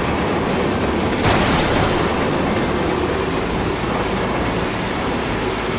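A tall steel tower toppling as its temporary base bolts give way: a heavy, continuous rumbling, with a harsher rush starting suddenly about a second in.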